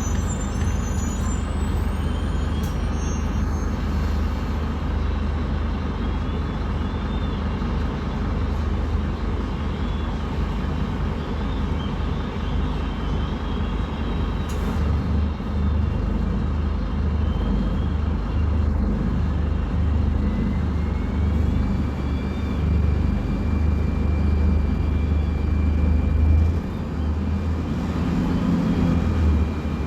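Scania K250UB city bus's diesel engine running, a steady deep drone that swells and eases with load. A faint whine rises in pitch about two-thirds of the way through and then holds.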